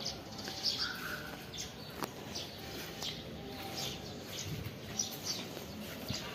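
Small birds chirping, short high chirps repeating every half second or so over steady background hiss, with a single sharp click about two seconds in.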